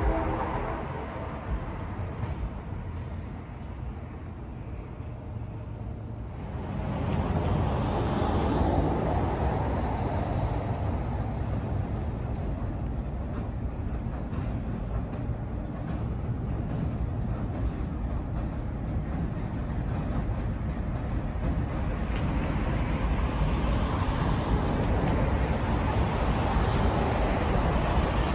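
Diesel locomotive and train running steadily, a rumbling noise that grows louder about six and a half seconds in and then holds.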